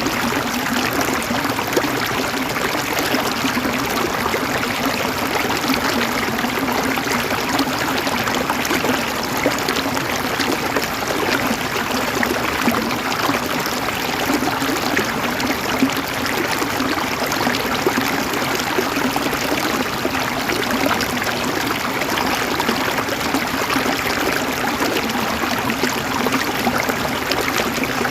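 River water flowing over rocks, a steady rushing with a fine babbling texture.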